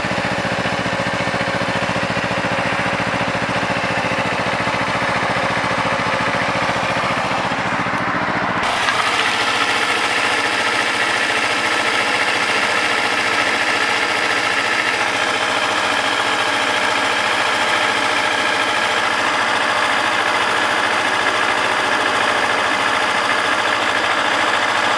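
2009 Kawasaki Ninja 250R's fuel-injected parallel-twin engine idling steadily as it warms up from a cold start at around freezing, still above its normal idle. Its sound changes abruptly about nine seconds in, then runs steady again.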